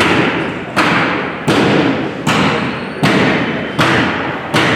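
Heavy hammer blows at a steady pace, about one every three-quarters of a second, each echoing in a large hall.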